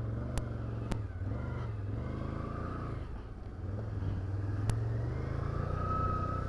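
Can-Am Outlander 850 ATV's V-twin engine running at low trail speed. It eases off about three seconds in and picks up again, with a few sharp knocks along the way.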